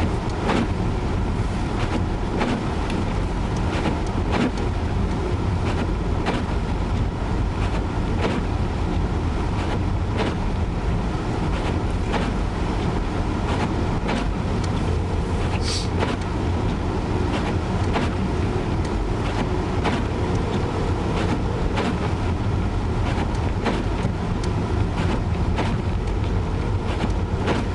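Steady engine and road rumble heard from inside a moving car's cabin, with frequent brief knocks and ticks through it.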